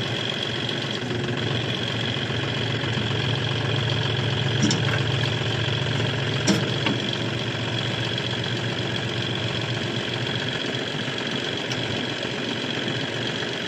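Tractor engine running steadily, with two short sharp knocks near the middle.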